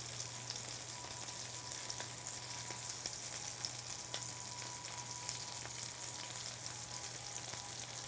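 Breaded chicken cutlets frying in a pan of hot oil: a steady sizzle with many small crackles.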